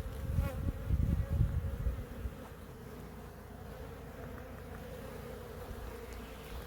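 Honeybees buzzing as a steady swarm hum around a wild hive in a tree. There is low rumbling for about the first two seconds.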